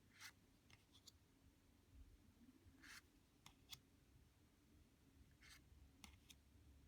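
Faint, soft swishes and light clicks of Lenormand cards being handled and flipped one at a time, about nine scattered through the stretch over a low steady hum.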